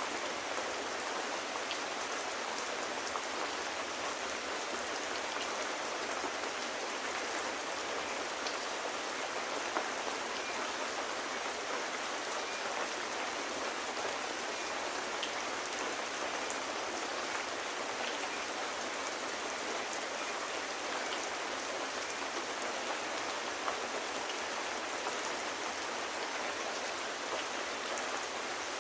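Steady rain falling and pattering on surfaces, an even hiss with a few faint scattered drop ticks.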